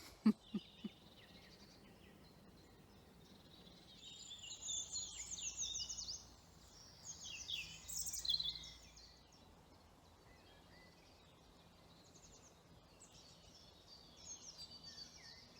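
A woodland songbird singing a rapid, high-pitched song of quick sweeping notes. It starts about four seconds in and runs for several seconds, with shorter phrases near the end. A few sharp clicks come right at the start.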